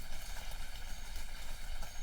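Light rain falling in a forest: a steady hiss with a dense patter of small drops.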